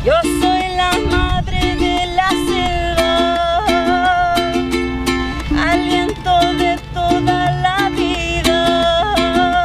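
Ukulele strummed in a steady rhythm, with a woman's voice singing long held, wavering notes over it.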